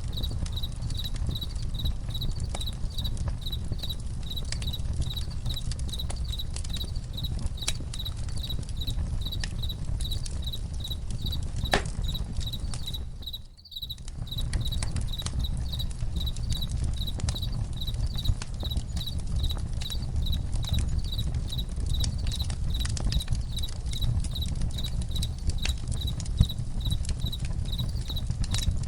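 Crickets chirping steadily, about three pulses a second, over the crackle and pops of a campfire, with a low steady rumble underneath. The whole mix dips briefly about halfway through.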